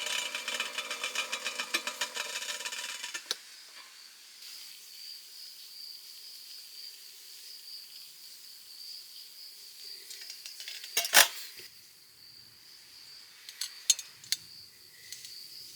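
A rapid rasping noise stops abruptly about three seconds in, leaving a steady high trill of insects singing. There is a sharp loud knock about eleven seconds in and a few lighter clicks near the end.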